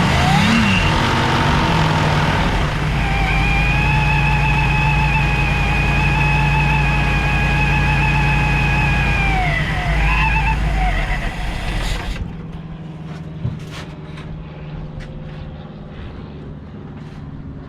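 Supercharged engine of a 1952 Mercury, freshly revived after long sitting, running at raised revs with a steady high whine over it. The whine and revs fall off about ten seconds in, and about twelve seconds in the engine drops to a quieter idle.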